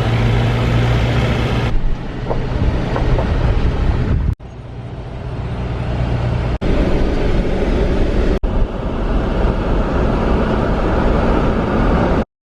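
Farm tractor engines running hard under load as they pull a weight-transfer sled, a steady heavy drone across several short clips that cut in abruptly. After about four seconds one clip swells in loudness as a tractor comes closer or works harder. The sound stops dead just before the end.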